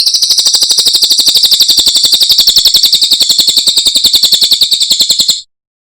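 Cililin songbird singing one long, loud, very rapid trill of about a dozen notes a second, high-pitched and even, cutting off abruptly near the end.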